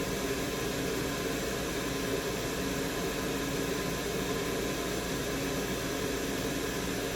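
Steady airflow hiss from a blower or fan at an electronics repair bench, with a faint low hum underneath.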